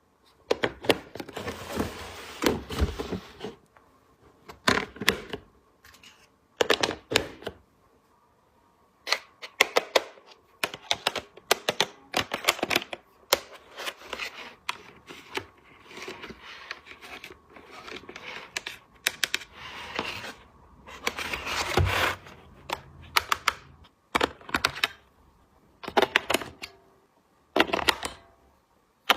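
Small plastic toy pieces clicking and tapping as they are handled and set down, in irregular clusters with short quiet gaps. Brief stretches of rustling come in between.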